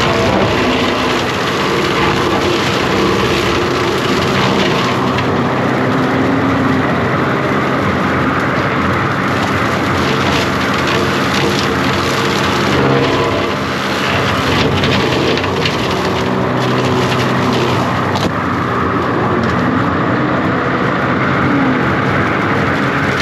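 John Deere 333G compact track loader's diesel engine running steadily under load, its pitch shifting now and then, with scattered cracks and snaps of brush and limbs being cut.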